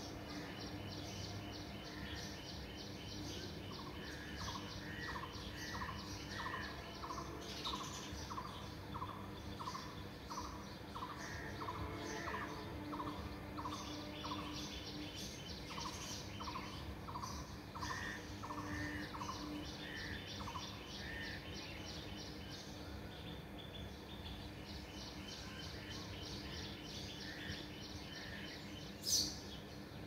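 Birds chirping and singing: rapid high chirps throughout, and a repeated series of short notes at about three a second through much of the middle, over a faint steady hum. A single sharp click near the end.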